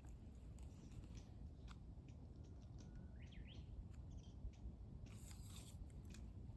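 Faint outdoor quiet with a few short, rising bird chirps in the middle and scattered small clicks.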